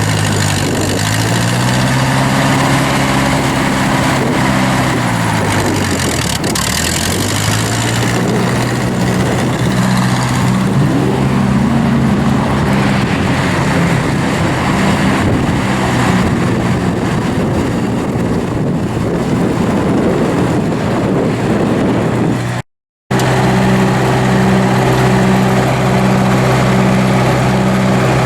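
1956 Ferguson F40 tractor's four-cylinder gas engine running, its pitch swelling up and dropping back in the first several seconds, then holding steady. The sound cuts out for a moment near the end and resumes at a steady pitch. The engine is one the owner says runs like it could use a tune-up.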